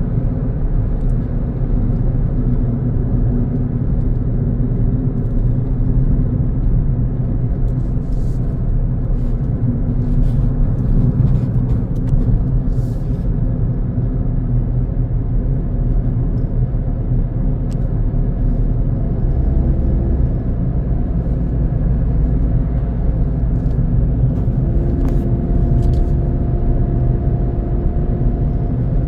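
A car driving along a road: steady low rumble of engine and tyres, with a faint humming tone joining near the end.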